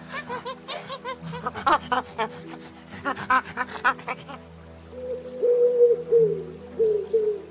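Soft background music under an animal's rapid run of short, repeated calls, about five a second, which stop about four seconds in. A bird then gives a series of low, level notes, each about half a second long.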